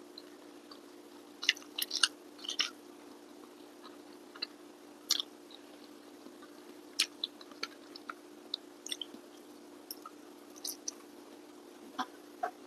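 Close-miked eating sounds: a person chewing rice by hand, with scattered sharp mouth clicks, busiest in the first few seconds, over a steady low hum.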